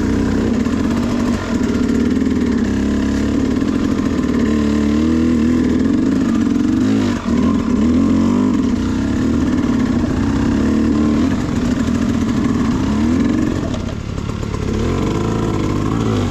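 Sherco SE300 two-stroke enduro motorcycle engine running with constant throttle changes, its pitch rising and falling every second or two, with a brief drop about halfway through.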